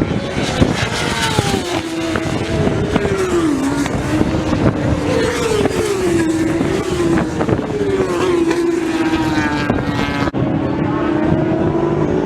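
Racing motorcycles at high revs, engine notes overlapping as several bikes pass, their pitch repeatedly rising and falling through gear changes. A brief dip about ten seconds in, then a steadier engine note.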